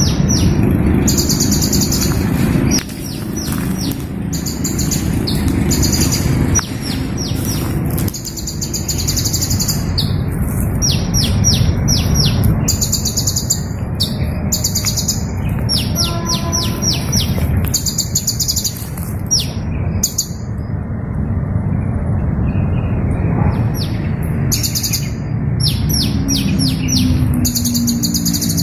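Hummingbird chirping: very high, quick chip notes in short rapid runs, repeated every second or two, over a steady low rumble.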